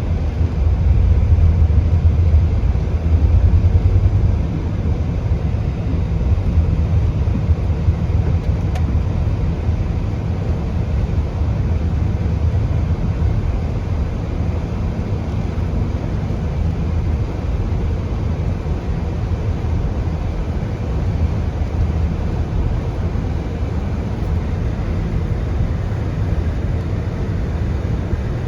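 Car driving: a steady low rumble of engine and road noise, a little louder in the first few seconds.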